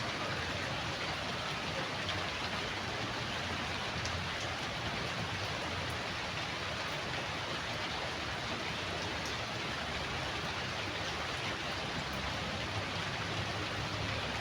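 Steady rainfall: an even hiss with a few faint drop ticks.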